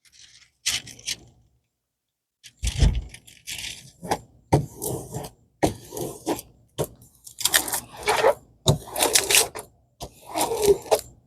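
Irregular rustling and crinkling as a diamond painting canvas with its plastic cover film is handled and smoothed out. A few faint ticks come first, then the rustling grows more frequent after a couple of seconds.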